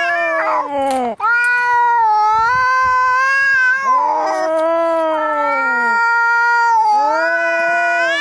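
Cat yowling in long, drawn-out caterwauls, about three in a row, each wavering in pitch and running straight into the next: the angry yowl of a cat squaring up to fight.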